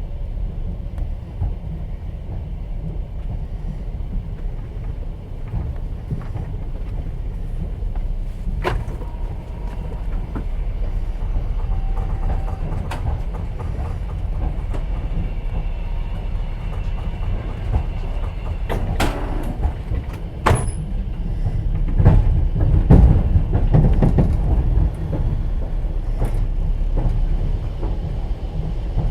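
Inside a moving passenger train's open sleeper carriage: a steady low rumble of the wheels on the rails, with a few sharp clicks and knocks and a louder stretch of rumbling about three quarters of the way in.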